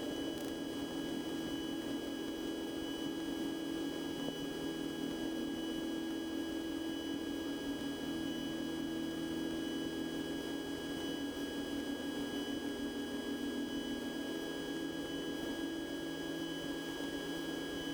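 Cessna 150's engine and cabin drone in the climb after takeoff, faint and steady as picked up through the aircraft's audio feed, with a few steady high whine tones over it.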